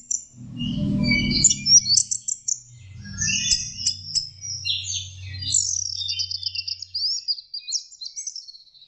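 Orange-headed thrush singing a long, varied run of quick trills, whistles and gliding notes, a young bird practising its song. A low rumble underneath stops about seven seconds in.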